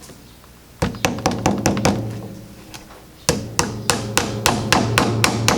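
Hammer tapping a small nail into a wooden beehive frame to catch the frame's wire hoop. Two runs of quick, light taps, the second run starting a little past halfway at about five taps a second, with a low ring after each strike.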